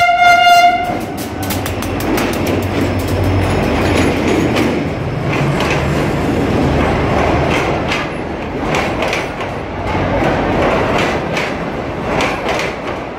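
Pakistan Railways GEU-40 diesel-electric locomotive sounding its horn, one steady note that stops about a second in, as the train pulls in. The power van and coaches then roll slowly past, their wheels clicking over rail joints with a steady rumble.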